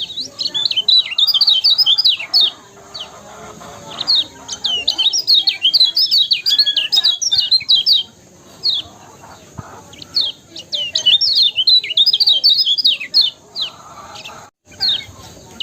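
Kecial kuning (a white-eye songbird) singing: rapid runs of high, quick chirping notes in phrases a few seconds long, broken by short pauses. The sound cuts out for an instant near the end.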